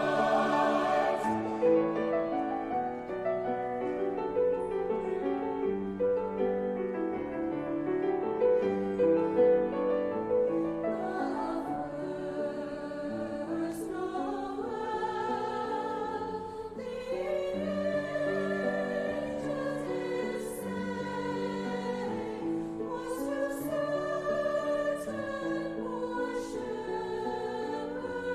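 Choir singing a sacred piece, with chords that change and held notes sung with vibrato.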